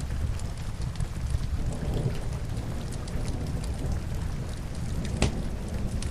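Steady rain with a low rumble underneath, and the pops and crackles of burning logs in a fireplace scattered through it, one sharper pop about five seconds in.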